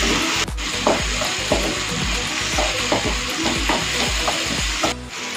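Onions and tomatoes frying in oil in a pan, sizzling, while a wooden spatula stirs and scrapes them in quick strokes, about three or four a second.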